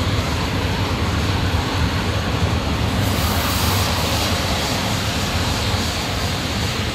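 Freight train of loaded open coal wagons rolling past: a steady rumble and clatter of wheels on the rails, with a brighter hiss joining about three seconds in.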